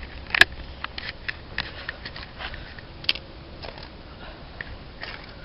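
Handling noise of scattered small clicks, taps and scrapes, the sharpest about half a second in and another about three seconds in.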